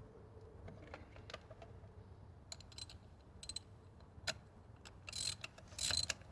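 Ratchet socket wrench clicking as a spark plug is screwed back into the engine: scattered single clicks and taps, then two quick runs of ratcheting near the end.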